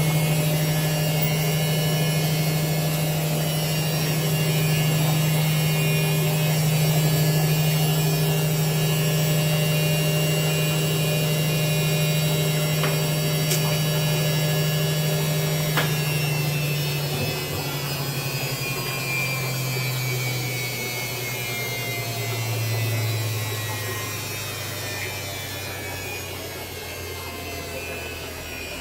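Washing machine motor and drum running with a steady hum, then slowing down: about halfway through, the pitch starts to fall and the sound fades. Two sharp clicks near the middle.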